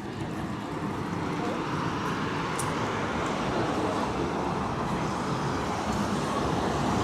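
Downtown city street traffic noise, passing vehicles making a steady wash of sound that grows gradually louder, with indistinct voices of passersby mixed in.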